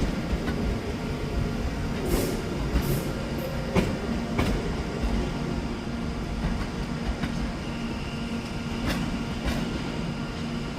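A train running at a station platform: a steady low rumble and hum, broken by a handful of sharp clacks. A faint high whine comes in about three-quarters of the way through.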